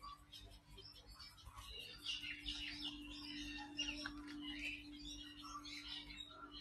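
Several birds chirping and twittering in quick short calls, busier after about two seconds, over a faint steady hum.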